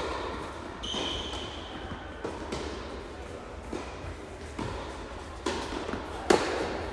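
Tennis ball being struck by rackets and bouncing on the court, a series of sharp knocks at uneven spacing, the loudest near the end. A short high squeak comes about a second in.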